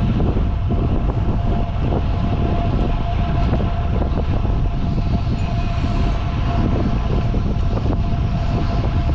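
Wind rushing over the microphone of a camera riding on a moving road bike, a steady loud rumble mixed with tyre and road noise. A thin steady hum runs underneath.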